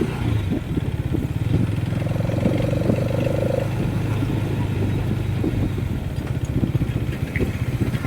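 Motorcycle on the move, its engine running with a steady low rumble and an uneven flutter of wind noise on the microphone. About two seconds in, a steady higher tone sounds for roughly a second and a half.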